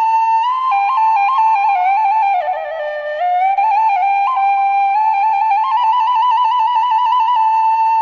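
Background music: a solo flute playing a melody full of quick trills, dipping to lower notes about halfway through and then climbing back up.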